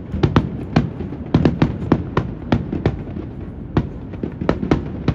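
Fireworks bursting in rapid, irregular succession: many sharp cracks and bangs, several a second, over a steady low rumble of wind on the microphone.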